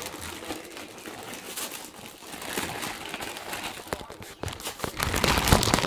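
Plastic packaging crinkling and rustling as vacuum cleaner parts are unwrapped and handled, louder near the end.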